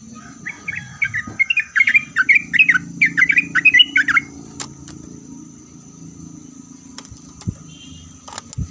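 Yellow-vented bulbul (trucuk) singing two rapid phrases of quick, warbling notes in the first half, followed by a few sharp clicks, over a low steady hum.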